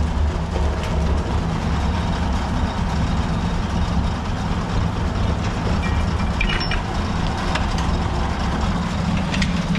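Tractor engine running steadily at a constant speed, with a few brief clicks or rattles a little past the middle.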